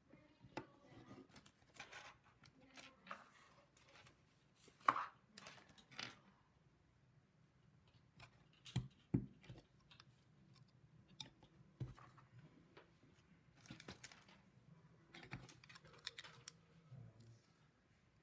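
Plastic LEGO pieces being handled and pressed together: scattered small clicks and rustles, loudest about five seconds and again about nine seconds in.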